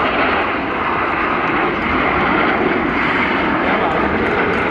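Jet engine noise from Aermacchi MB-339 jet trainers flying an aerobatic display, a loud, steady noise with no break.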